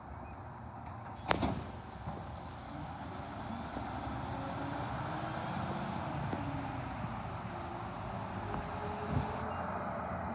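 Motor vehicle running, a steady engine and road noise that grows a little louder after about three seconds, with a sharp click about a second in and a smaller knock near the end.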